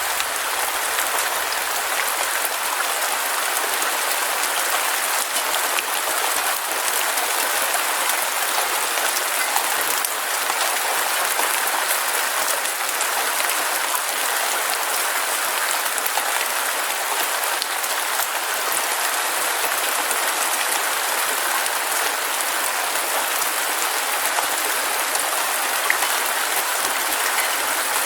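Heavy rain falling steadily: a dense, even hiss crackling with many small drop impacts.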